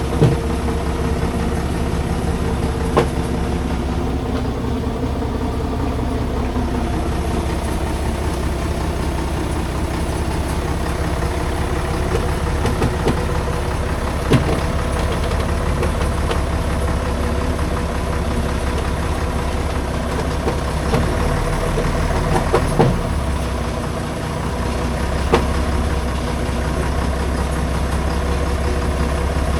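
Logging truck engine running steadily, with a few sharp knocks through the sound. The deep engine note shifts for a few seconds a little past the middle, then settles back.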